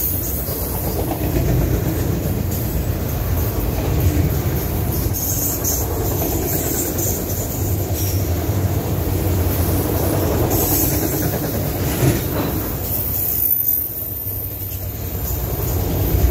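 Norfolk Southern freight train of autorack cars rolling past close by: a steady rumble of steel wheels on rail. Brief high squeals come and go, and there is a single sharp clack about twelve seconds in.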